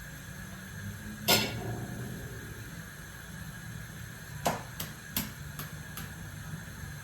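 Kitchen utensils knocking and clinking against dishes: one sharp knock, then about five lighter clicks in quick succession a few seconds later, over a low steady hum.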